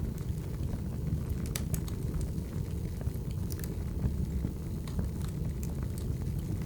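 Wood fire burning: a steady low rush of the flames with sharp snaps and pops of the burning logs scattered through it.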